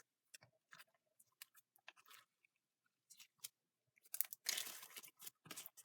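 Homemade glue-and-borax slime being kneaded by hand: faint, scattered sticky clicks and squishes at first, then a denser run of squelching and crackling from about four seconds in.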